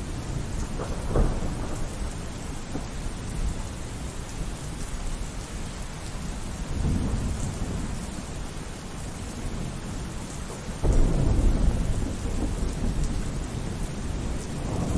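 Steady rain falling through a thunderstorm, with rolls of thunder: a crack about a second in, a rumble around seven seconds, and a louder rumble that starts suddenly about eleven seconds in and slowly fades.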